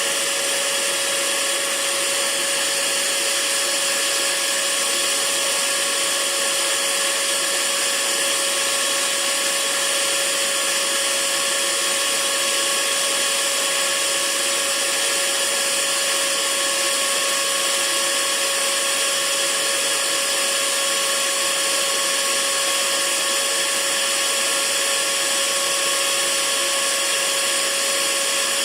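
Hair dryer running steadily: a constant rush of blown air with a steady motor whine on top, unchanging throughout.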